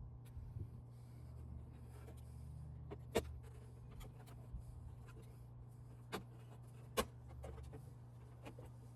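Sharp plastic clicks and snaps from the Toyota Tundra's mirror glass being worked loose and pulled off its motor mount, the loudest about three seconds in and again near seven seconds, over a steady low hum.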